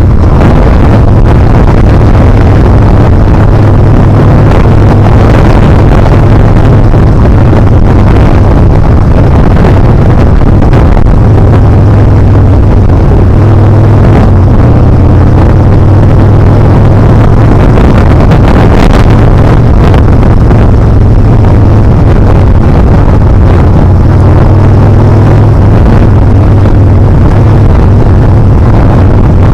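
Yamaha Bolt R-spec's air-cooled V-twin engine running steadily while riding, its pitch shifting slightly now and then, with heavy wind noise buffeting the helmet or action-camera microphone.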